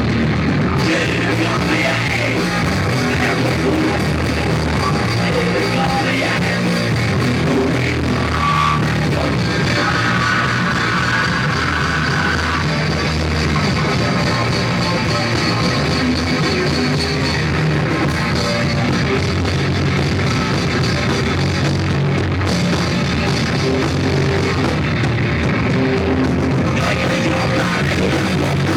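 Live rock band playing loud and without a break, with guitar and vocals in a rough, poor-quality recording.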